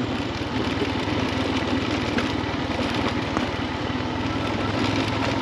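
Motorcycle engine running steadily, its firing pulses even throughout.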